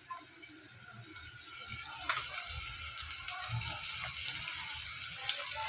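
Onions, ginger-garlic and spices sizzling in hot oil in a steel pot: the tempering (phodni) for sambar frying, with a few light clicks.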